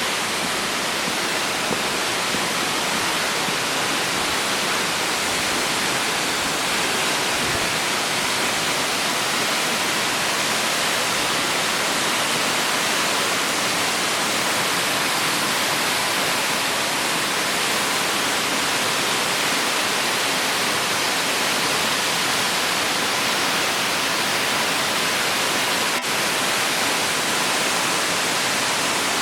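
Songlong Rock Waterfall's water falling into its pool, a steady, unbroken rush.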